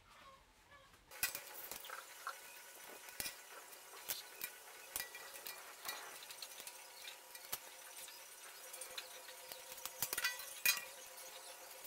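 Electric arc welding on steel: a steady crackling sizzle with many small snaps, starting about a second in.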